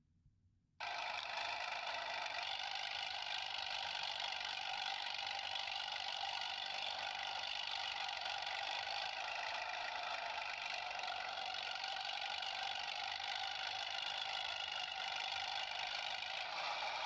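A steady, unbroken engine sound with a thin, tinny hum and little bass. It starts just under a second in, after a short cut to silence.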